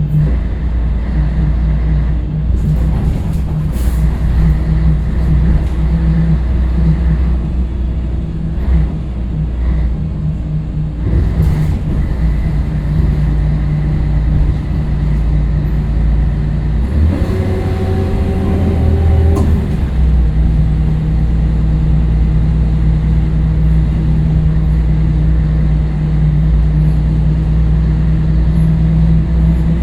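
Scania L113CRL bus's diesel engine running steadily, with a few sharp knocks and a change in the engine note for a few seconds about two-thirds of the way through.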